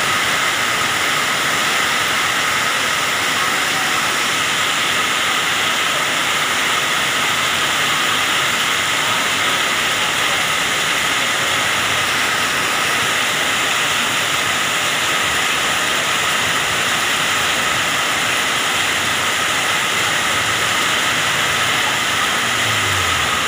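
Heavy rain pouring down in strong wind: a loud, steady hiss of the downpour.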